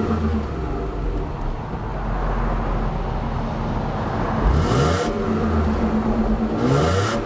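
2001 Mercury Cougar's 2.5-litre Duratec V6 running, heard from the exhaust, blipped up in revs twice, about four and a half seconds in and again near the end.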